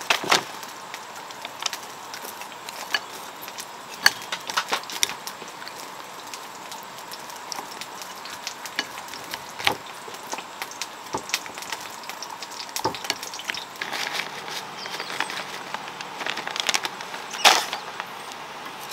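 Food sizzling in a pan, a steady hiss with scattered sharp clicks and knocks.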